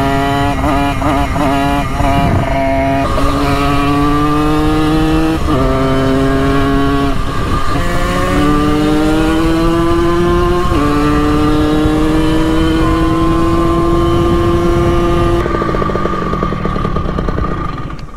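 Simson two-stroke moped engine accelerating hard and shifting up through the gears. The pitch climbs steadily and drops at each shift, about 3, 5½, 8 and 11 seconds in. The note wavers quickly in the first couple of seconds and fades away near the end.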